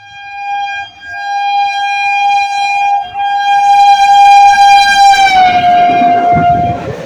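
EMU train's horn sounding one long, loud single-note blast, briefly broken twice. About five seconds in, the note drops slightly in pitch as the train passes, and the rumble of the train rushing by swells up under it until the horn stops near the end.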